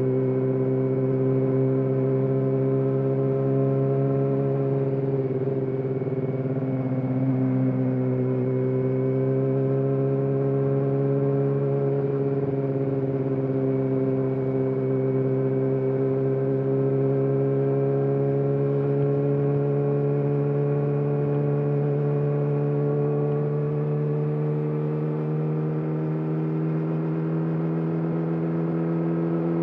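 Yamaha YZF-R6 (RJ27) 599 cc inline-four with an SC-Project aftermarket exhaust, running at a steady moderate engine speed. The pitch sags slightly a few seconds in and starts to rise near the end as the engine picks up revs.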